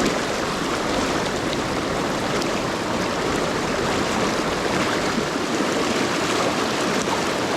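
Mountain river water rushing steadily over rapids.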